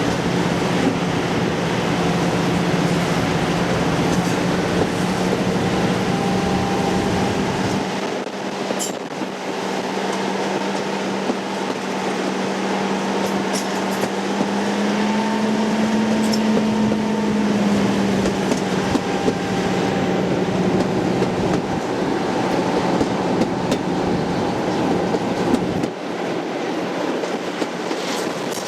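Diesel locomotive running with a steady engine note that rises a little about halfway through and settles back, over rail noise from the train.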